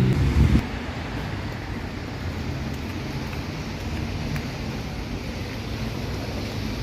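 Steady vehicle road noise, an even low rumble without a clear engine tone.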